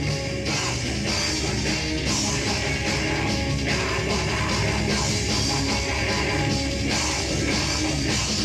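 Live metal band playing: distorted electric guitars over a drum kit, a dense, steady wall of sound.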